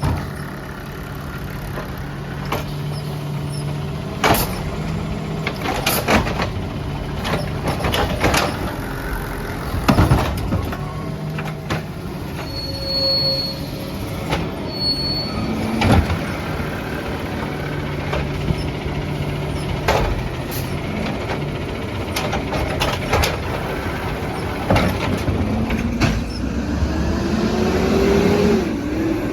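Peterbilt 320 garbage truck working: its engine running steadily under repeated bangs and clatters, with two short high beeps around the middle and a rising whine near the end.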